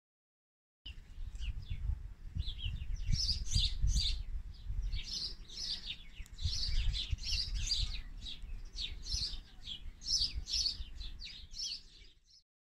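Songbirds singing, a dense run of rapid high chirps and twitters over a low rumble; it starts abruptly about a second in and fades out near the end.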